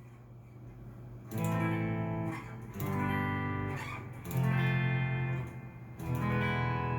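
Cort S series electric guitar played through a Fender amp with no effects: after a moment of low amp hum, four chords are struck about a second and a half apart, each left to ring out.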